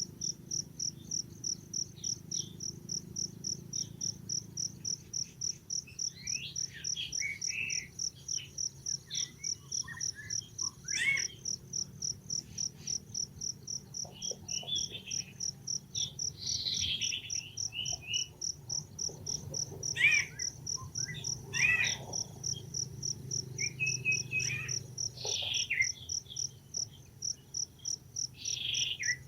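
Cricket-like insect chirping in a steady high pulse, about two to three beats a second. From about six seconds in, scattered short high chirps and squeaks rise over it, the loudest about twenty seconds in.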